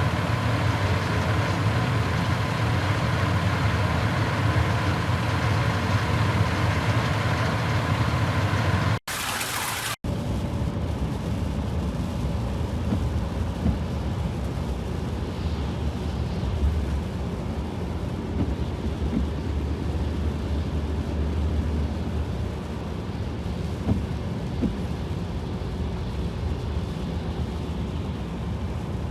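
Outdoor road-traffic noise: a steady rumble and hiss of passing vehicles. Hard cuts between clips come about 9 and 10 seconds in, and after them the rumble is lower and duller.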